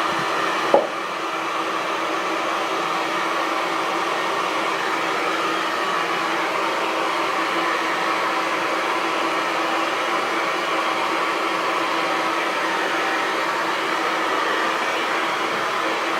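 Hair dryer running steadily: an even rushing blow of air over a constant motor hum. There is a single brief click under a second in.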